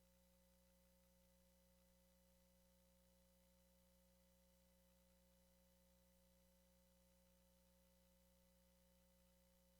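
Near silence: a faint steady electrical hum and hiss, with no change.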